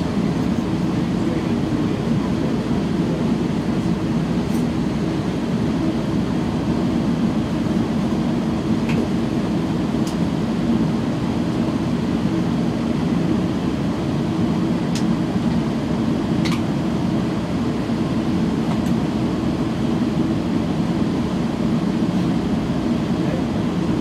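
Metrolink commuter train running at speed, heard from inside a passenger car: a steady, even rumble that holds at one level throughout. A few faint, brief clicks come now and then.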